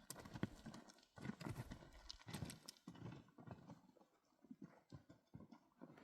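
Faint, irregular clopping of donkeys' hooves at a walk.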